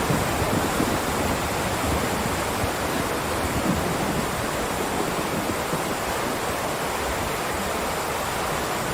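Heavy rain downpour: a steady, even hiss of falling rain.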